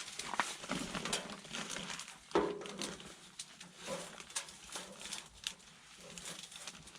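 Metal knocks and clinks from handling a tent wood stove, with one louder clang that rings briefly about two and a half seconds in.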